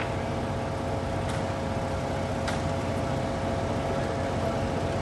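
Steady mechanical hum with a held low drone, broken by a few faint clicks.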